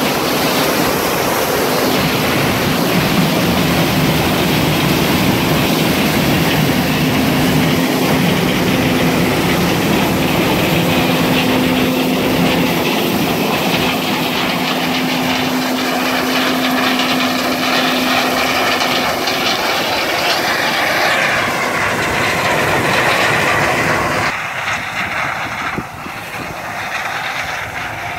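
Farm harvest machinery running steadily, a hum under a dense rush of wind noise on the microphone; about 24 s in the sound drops and becomes quieter.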